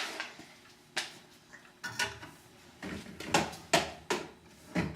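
Scattered sharp knocks and clatters of hard objects being handled, several of them at irregular intervals.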